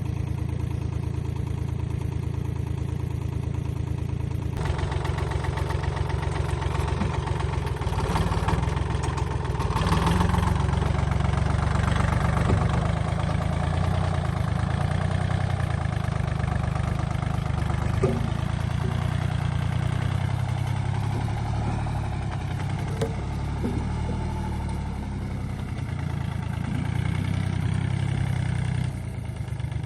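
A motor-driven machine running steadily with a low hum. From about four and a half seconds in it turns noisier, with a few short knocks.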